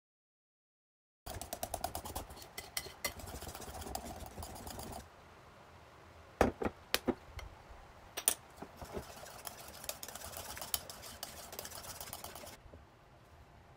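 Small objects being handled: rapid light clicks, taps and clinks in short bursts, with a few sharper separate knocks in the middle. The sound starts after a short stretch of dead silence.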